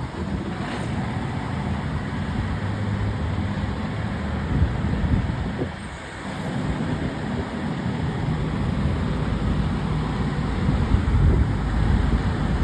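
Motor vehicle engines and road traffic, a steady low rumble that dips briefly about six seconds in.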